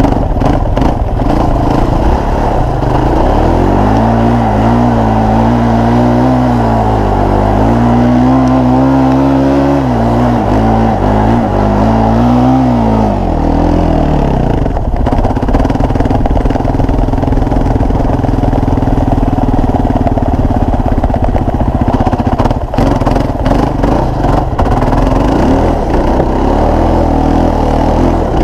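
Small off-road vehicle engine revving up and down several times under throttle, then settling into a steady run about halfway through.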